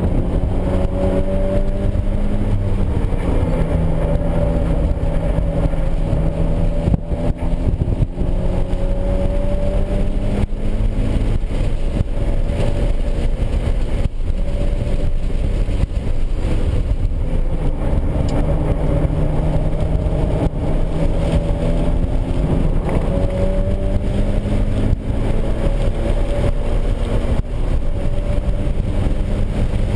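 2013 Scion FR-S's 2.0-litre flat-four engine under hard track driving, heard from inside the cabin. Its pitch rises through each gear and drops at the shifts and lifts, again and again, over steady road and wind noise.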